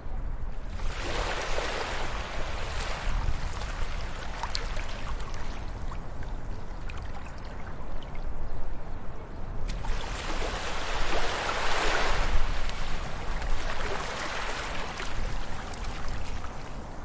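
Sea waves breaking and washing up a beach: surges of surf about a second in and again, louder, around ten seconds in, over a steady low rumble of the sea.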